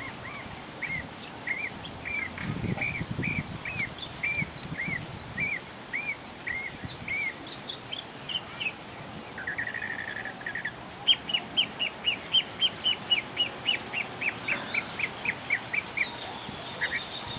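Birds calling. A series of arched whistled notes comes about twice a second, then a short buzzy trill, then a faster run of sharp descending notes, which is the loudest part.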